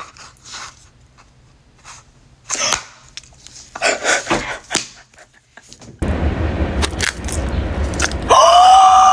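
Blind-box packaging crinkling and tearing in short, scattered bursts. Later the background gets louder, and near the end a steady high held tone lasts about a second.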